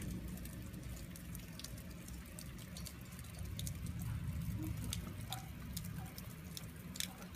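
Rain falling steadily, with scattered sharp drips and taps landing at irregular moments.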